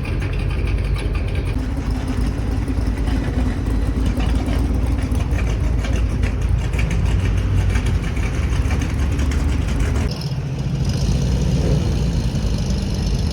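Car engines running at low speed with a deep, steady engine sound. About ten seconds in, the sound drops briefly and changes character.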